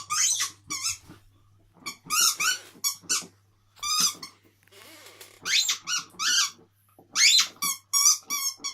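Dog's squeaky toy squeaking as the dog chews it: quick runs of high-pitched squeaks, several bunched together, with short pauses between runs.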